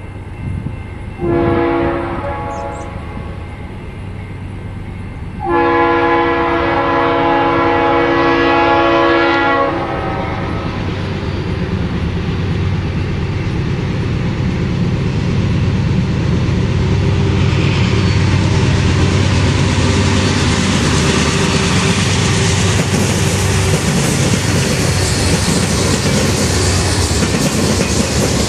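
Circus train's diesel locomotive sounding its horn, a shorter blast and then a long one of about four seconds, the long one loudest. Then a heavy locomotive rumble and the steady clickety-clack of the passenger cars' wheels over the rail joints as the train rolls past.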